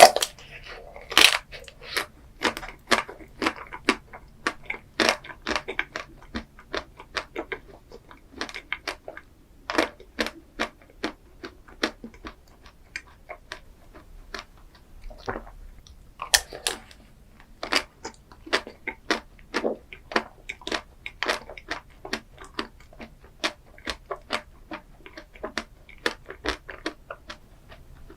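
Close-miked chewing of chocolate ice cream dessert: a quick, uneven series of sharp, wet crunching clicks, about two to three a second, the loudest near the start.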